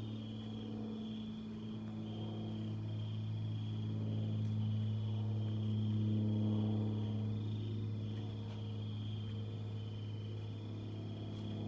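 Insects chirping in a high, evenly pulsing chorus over a steady low hum.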